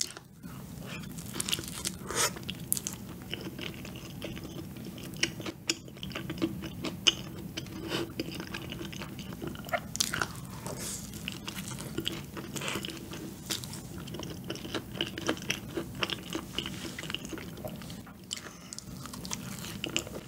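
Close-miked biting and chewing of a sugar-coated cream donut filled with corn cream, with many small crunches and clicks as the corn kernels in the cream pop between the teeth.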